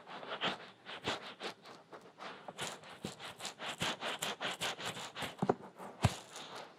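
Fingers rubbing and scratching over the ears of a binaural microphone in quick strokes, thickest in the middle, with two sharper knocks about five and a half and six seconds in.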